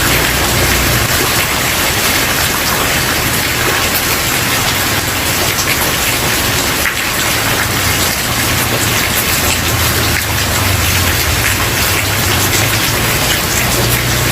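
Steady heavy rain falling on a wooden porch, a dense even hiss with many small drop strikes and a low rumble underneath.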